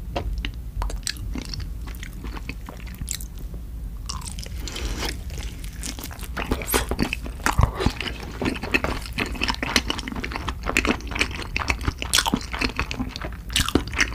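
Close-miked crunchy biting and chewing of a fried, crumb-coated shrimp fish cake on a stick: a run of crisp crackles that grows denser and louder after the first few seconds.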